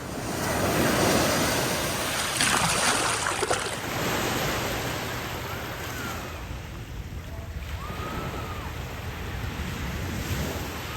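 Waves breaking and washing up on the beach, the loudest surge in the first few seconds, with wind on the microphone.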